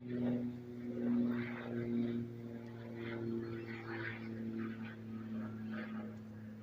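A vehicle engine running steadily, a constant low hum at one unchanging pitch, with some uneven rustling noise over it.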